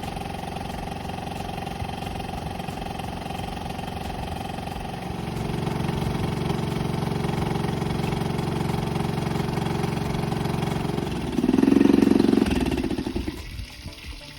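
Honda 2.3 hp single-cylinder, air-cooled four-stroke outboard running steadily during a warm-up run before an oil change. It gets louder about five seconds in, revs briefly just before the twelve-second mark, then stops near the end.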